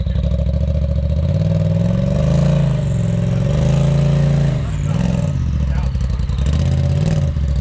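Polaris RZR side-by-side engine running under load while rock crawling, revved up in surges between about two and four and a half seconds in, then dropping back.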